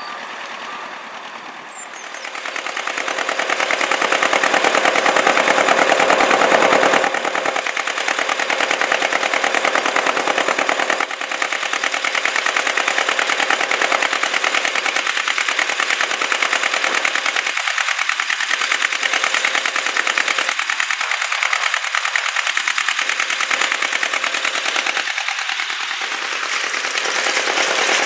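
Narrowboat's diesel engine running, a rapid even beat of exhaust pulses that holds steady throughout.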